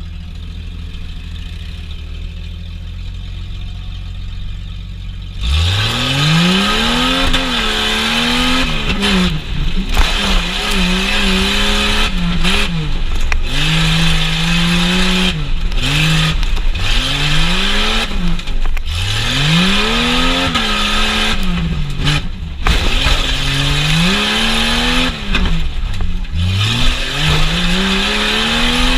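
Truck engine idling with a low rumble, then about five seconds in revving hard over and over, its pitch climbing and falling every two to three seconds as the throttle is opened and lifted.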